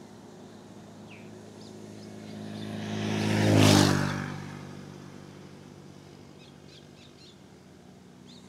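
A motor vehicle passes close by on the road. Its engine grows louder, is loudest about three and a half seconds in, then drops a little in pitch and fades away.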